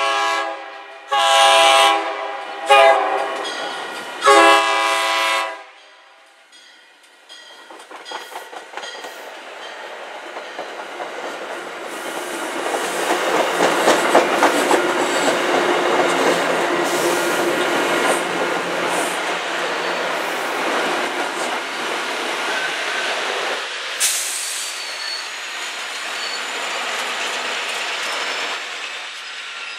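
Commuter train horn sounding four blasts for a grade crossing, the last the longest. The train then passes close by with a rising rumble and wheel clatter, with a sharp clank about 24 seconds in as the diesel locomotive pushing at the rear comes by.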